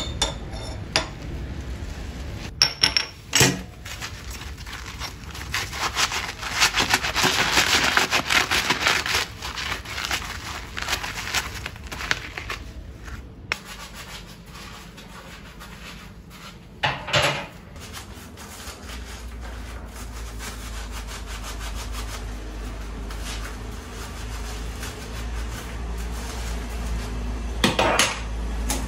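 Rubbing and scrubbing on a hard surface by hand, with a few sharp knocks; a low steady hum comes in about two-thirds of the way through.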